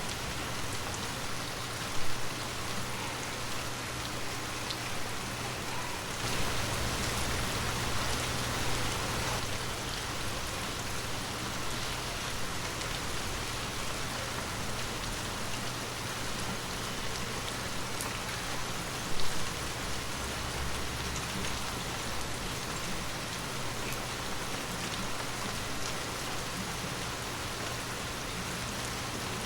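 Heavy rain falling steadily onto surfaces, a dense even hiss of drops. Two brief louder thumps stand out, about two seconds in and again about nineteen seconds in.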